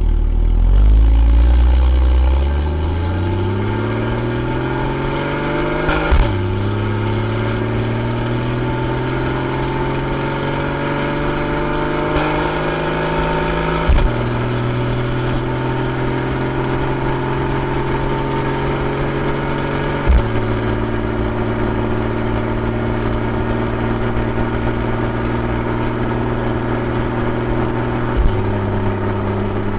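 Porsche 981 Boxster's 2.7-litre flat-six engine and exhaust pulling away and revving up through the first seconds. The car then shifts up four times, each shift a drop in pitch with a short sharp crack. Between shifts it runs at a nearly steady pitch.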